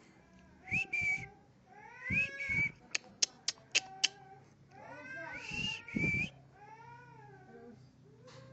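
Cat meowing several times, each meow rising and falling in pitch. A quick run of about six sharp clicks comes between the second and third meows.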